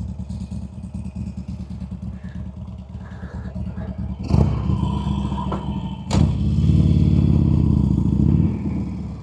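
Harley-Davidson Sportster V-twin engine running with a pulsing idle. About four seconds in there is a sharp clunk, and another comes a couple of seconds later. The engine then revs up louder for about two seconds and settles back.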